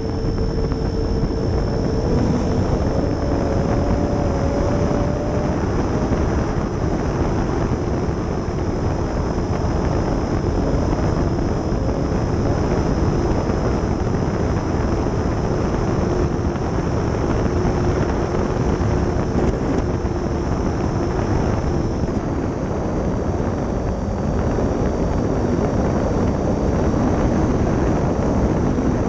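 Twin 70 mm 12-bladed electric ducted fans of an RC Me 262 running in flight, heard onboard: a steady high whine over rushing wind noise, the whine dropping slightly in pitch about 22 seconds in.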